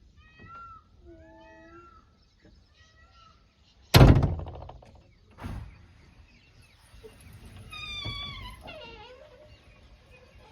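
Several short animal calls that rise and fall in pitch, then a loud thump about four seconds in and a longer call falling in pitch near eight seconds.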